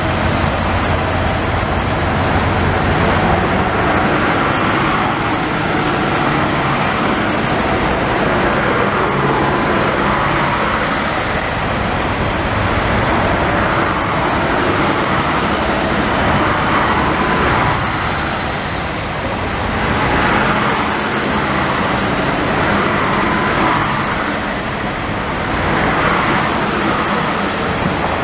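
Israel Railways passenger train pulling out of the station, its coaches rolling past close by with the steady running noise of wheels on rails and faint high squeals coming and going.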